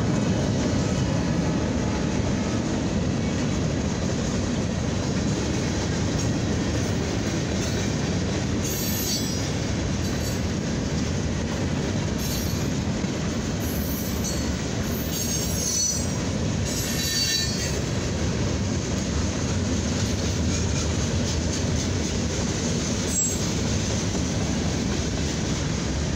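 Mixed freight train cars rolling past close by, a loud steady rumble of wheels on rail. Several brief high-pitched wheel squeals break through, around 9, 14, 17 and 23 seconds in.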